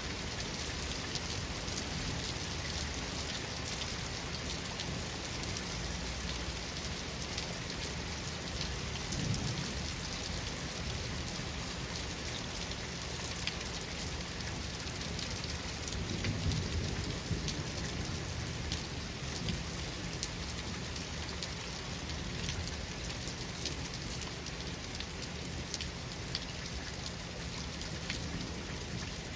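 Steady rain falling, with fine drop ticks throughout. Thunder rumbles low twice, about a third of the way in and again just past halfway.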